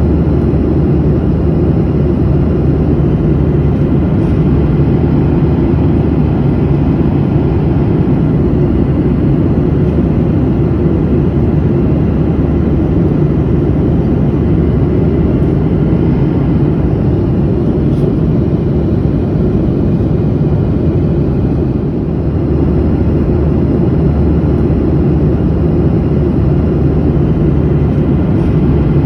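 Steady drone of an airplane in flight, heard from inside the cabin: a dense, even rumble with a low hum underneath.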